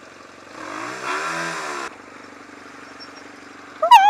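Yamaha XJ600 motorcycle's air-cooled inline-four engine revving up hard as the bike pulls away; the surge cuts off sharply just under two seconds in, leaving a steady lower engine hum. A brief loud shout comes near the end.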